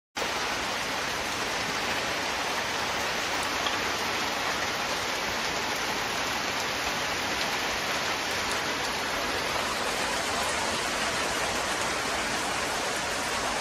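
Pouring rain: a steady, even hiss of heavy rain falling on puddles and wet ground.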